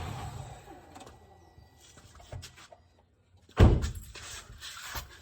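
A single heavy thunk about three and a half seconds in, after the engine hum dies away at the start.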